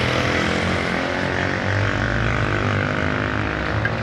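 Large bonfire burning hard, a steady rushing noise with a low rumble. The fire has flared up bigger than intended.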